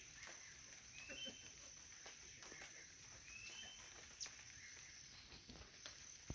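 Faint outdoor ambience, near silence: a steady high insect drone, with a short rising bird chirp twice, a couple of seconds apart, and a few faint clicks.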